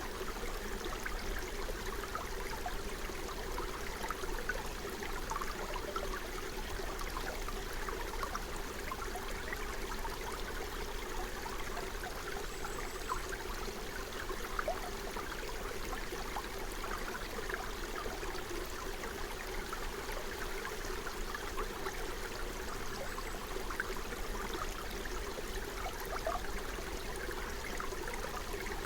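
Forest stream flowing: a steady rush of water with constant small gurgles and splashes.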